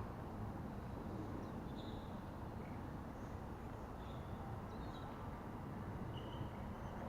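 Steady low rumble of outdoor background noise, with a few faint, short, high chirps.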